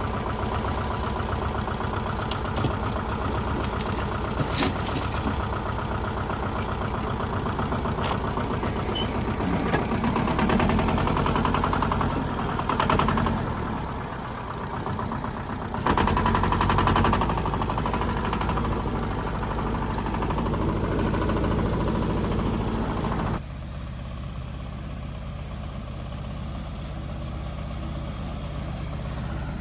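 Backhoe loader's diesel engine running, swelling in loudness twice as it works under load. About two-thirds of the way through, the sound drops suddenly to a lower, steadier engine note.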